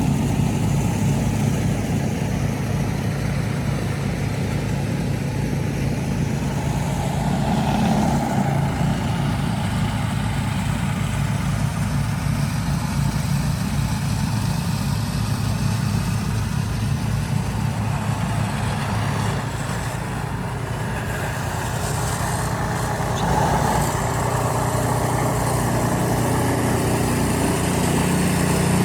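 A vehicle engine idling steadily, a low hum that lasts throughout, under a haze of city noise.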